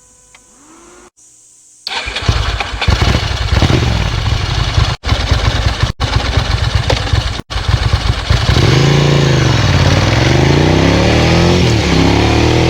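Ducati 900SL's air-cooled L-twin on a Termignoni full exhaust starting up about two seconds in and running a lumpy, uneven idle. From about halfway through, the throttle is blipped twice, the engine pitch rising and falling each time.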